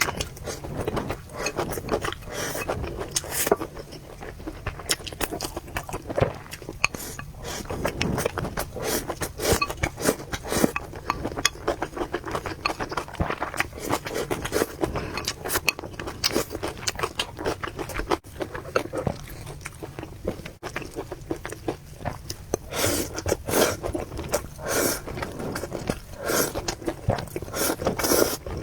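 A person eating noodles close to the microphone: irregular wet chewing, slurping and clicking mouth sounds, with some utensil scrapes. The sounds come in dense clusters throughout, a little louder and fuller near the end.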